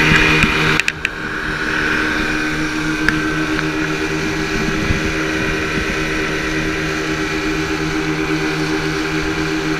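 Motorboat engine running steadily under way on the river, with a steady drone and rushing noise. The sound briefly drops out about a second in, then carries on.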